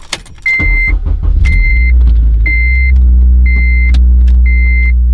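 Honda Civic Si's four-cylinder engine starting and settling into a steady idle. A high dashboard warning chime beeps about once a second throughout.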